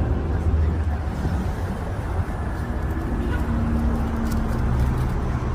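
City street traffic: a steady low rumble of passing vehicles, with a faint held engine tone for a moment past the middle.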